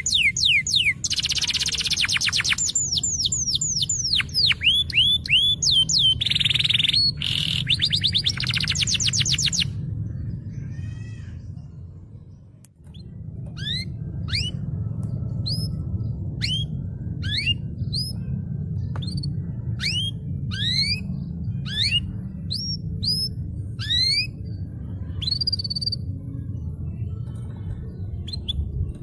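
Domestic canary singing: about ten seconds of fast trills and swooping notes that fade out around twelve seconds in, followed by a run of separate rising chirps, one every second or less. A steady low hum sits underneath.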